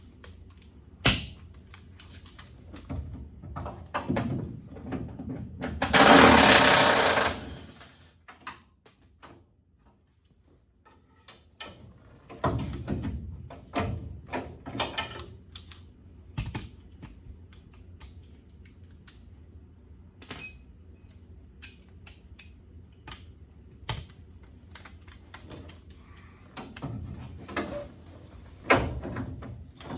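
Impact wrench running in a short burst about six seconds in, with scattered clinks and knocks of hand tools and metal parts, as truck bed bolts are worked loose.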